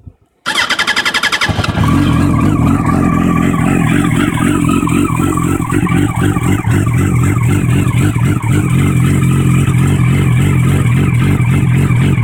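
Yamaha R1 motorcycle's inline-four engine started from cold: the starter cranks for about a second, then the engine catches and idles steadily.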